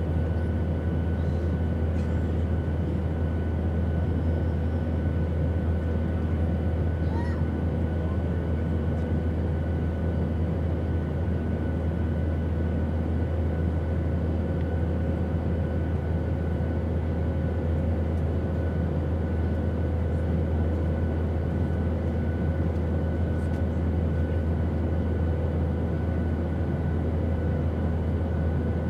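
Steady airplane engine drone, strongest in a deep low hum, with a few faint constant tones riding over a smooth rushing noise.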